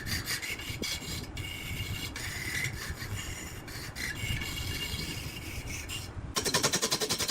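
A tool scraping and rasping on wood in short, uneven strokes. About six seconds in it gives way abruptly to a louder, rapid, even rattle of a machine.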